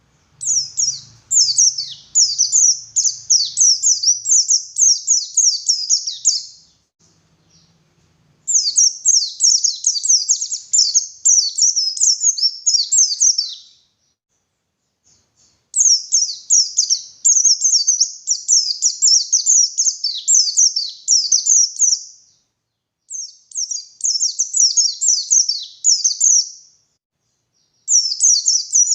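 White-eye (pleci) singing: long bursts of rapid, high twittering notes, five phrases of several seconds each with short pauses between, the last one cut off at the end.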